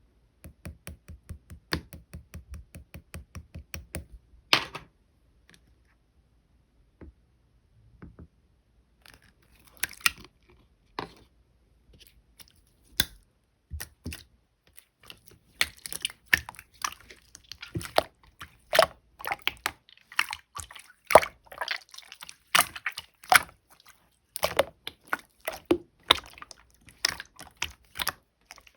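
White slime being squished and poked by hand, making wet clicks and pops. It starts with a fast, even run of about five clicks a second, goes sparse for a few seconds, then turns to denser, louder, irregular squelching pops in the second half.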